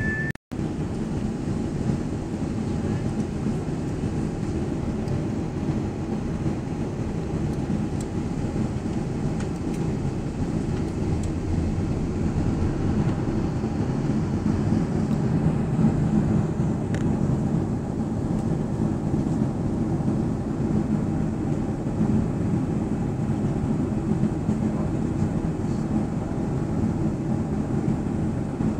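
Steady low rumble of cabin noise inside a Boeing airliner: engine and airflow noise with a faint hum, cut off for an instant about half a second in.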